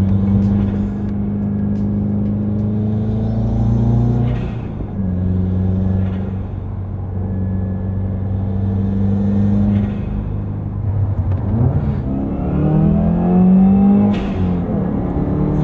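Subaru WRX's turbocharged FA20 flat-four engine with an Invidia R400 aftermarket exhaust running under way. It holds a steady drone, shifts in engine speed a few times, and rises in pitch as it accelerates from about twelve seconds in.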